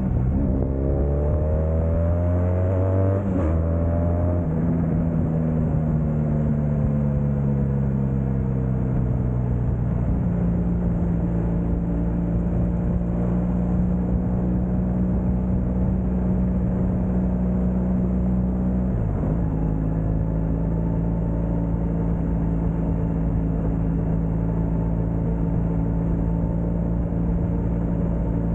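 Motorcycle engine under way: it revs up over the first few seconds, and its pitch drops sharply three times, like shifts up through the gears, before settling to a steady cruise. A steady rush of road and wind noise runs under it.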